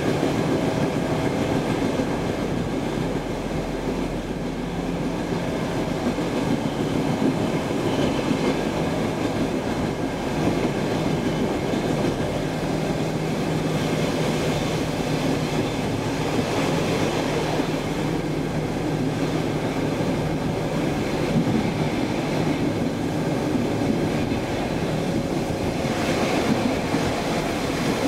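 Saltsjöbanan C10 electric commuter train running at speed, heard from inside the carriage: a steady rumble of wheels on the rails with a faint steady hum.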